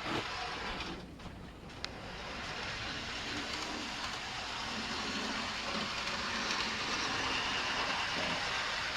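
OO gauge Terrier 0-6-0 tank model locomotive running along the track with a steady whirr of motor and wheels. It dips briefly about a second in, gives a single sharp click near two seconds, then grows slightly louder.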